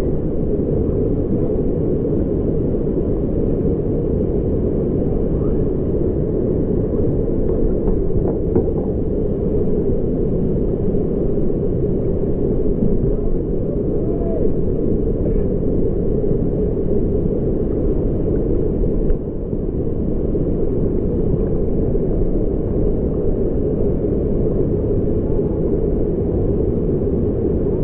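Steady low roar of whitewater pouring over a waterfall, continuous and unbroken.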